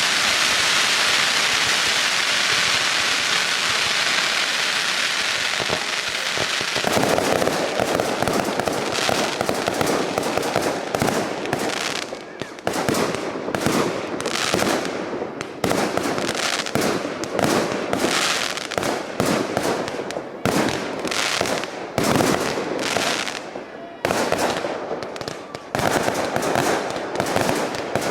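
Fireworks display: a steady hissing rush for the first several seconds, then a dense, rapid run of bangs and crackles from about seven seconds in, with short lulls between volleys.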